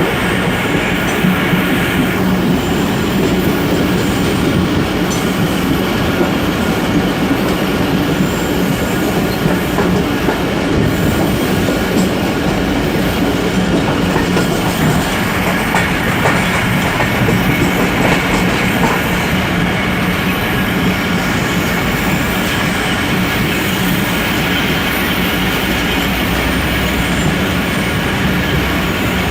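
Passenger train running along the track: a loud, steady rumble and rattle of the coaches and wheels on the rails, holding even throughout.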